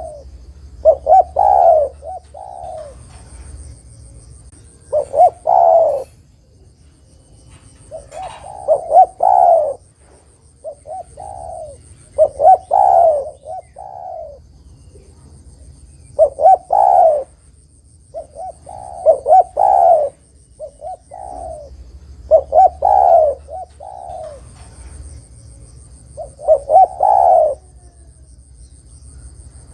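Spotted dove (derkuku, tekukur) cooing: a loud phrase of several short, low coos repeated about every three to four seconds, a call used as a lure to draw other doves.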